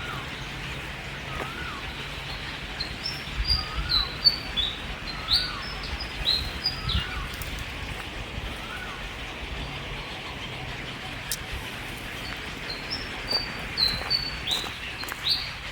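Birds calling: two bouts of short, high, down-sweeping chirps, with a softer lower call repeating every second or so in between, over a steady hiss.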